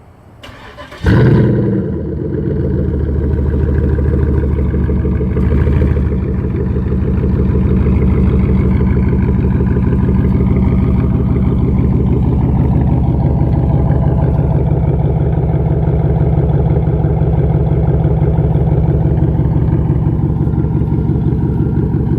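2006 Chevy Impala SS's 5.3-litre V8 with its mufflers and resonator deleted, started up: a brief crank, a loud flare as it fires about a second in, then a steady idle through the open exhaust.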